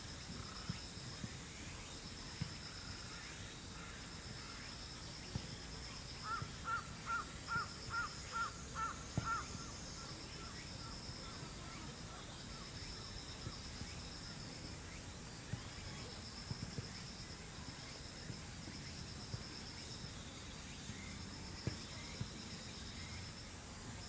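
A bird calling a quick series of about nine clear, arched notes, about six seconds in, over a faint high trill that repeats every second or two.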